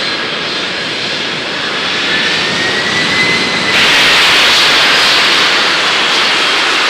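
Boeing 757 jet engines spooling up for takeoff, with a slowly rising whine over the engine noise. About four seconds in, the noise gets suddenly louder and stays loud.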